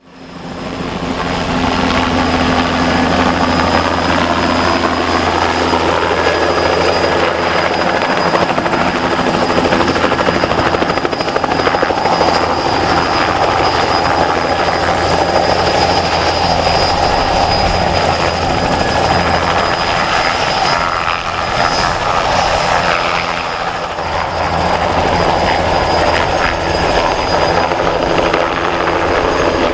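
Bell 206B JetRanger helicopter flying: its two-blade main rotor beats steadily under a thin, steady high whine from the Allison 250 turboshaft, fading in over the first second.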